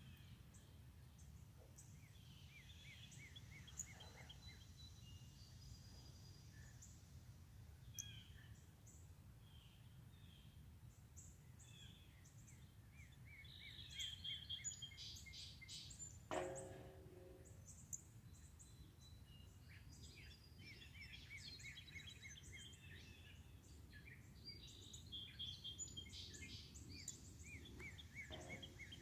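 Songbirds chirping and singing, faint, in runs of quick repeated notes, over a steady low background hum. About sixteen seconds in there is one brief, louder sound.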